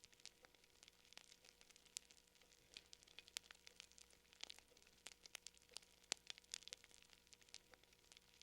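Fire crackling, faint: irregular sharp snaps and pops, several a second, with no steady rhythm.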